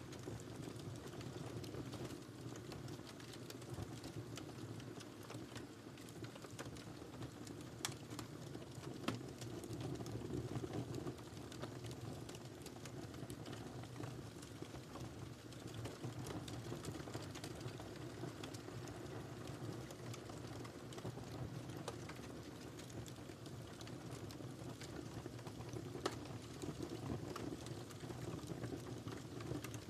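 Wood fire burning in a fireplace: a steady low rumble with scattered small crackles and a few sharper pops, two close together about a third of the way in and one more near the end.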